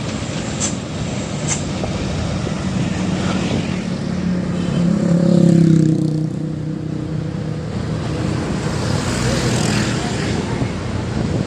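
Road traffic with a loaded heavy truck's engine passing by. The engine grows loudest about five to six seconds in, then fades under steady road noise.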